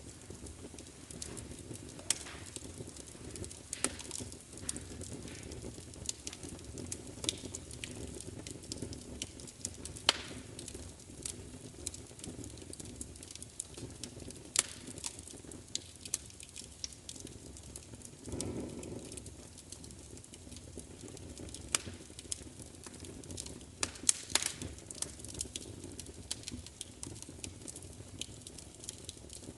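Wood fire crackling, with irregular sharp pops and snaps over a steady low rush of flame. A brief louder low swell about 18 seconds in.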